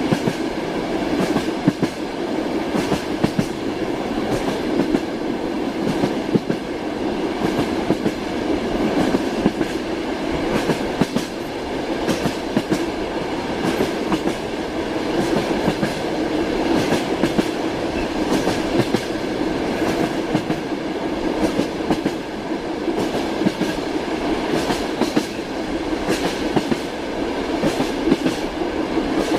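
Train running on the rails, heard steadily: a continuous rumble with the irregular knocking of wheels over the rail joints.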